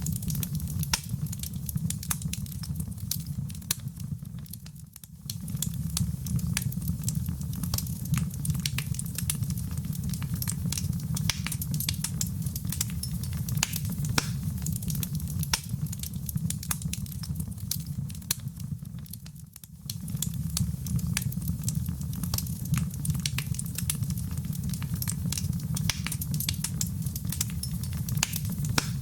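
Wood fire burning in a fireplace: a steady low rumble of flame with many sharp crackles and pops. The sound dips briefly twice.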